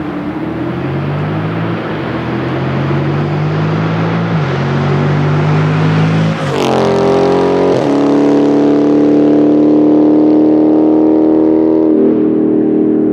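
Dodge 6.4L (392) HEMI V8 running through an AWE Track Edition stainless straight-through exhaust while the car is driven: the engine note rises and steps in pitch a few times, changes sharply about halfway through, then holds a steady, deep drone.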